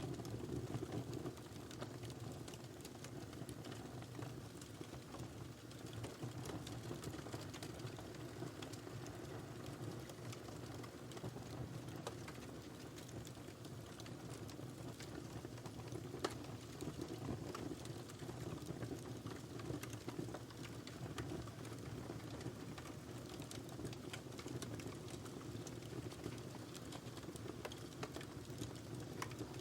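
Wood fire burning in a fireplace: a steady low rush of flame with constant small crackles and occasional louder pops, the loudest about sixteen seconds in.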